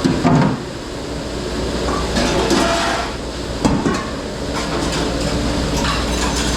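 Dish room noise: a steady mechanical rumble and hum with dishes and racks clattering a few times.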